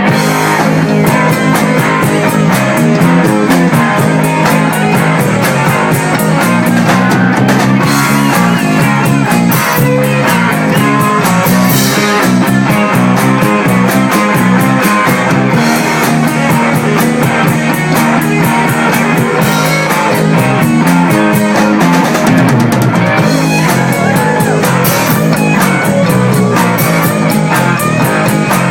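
Live rock band playing: electric guitar over a drum kit, with a steady cymbal beat.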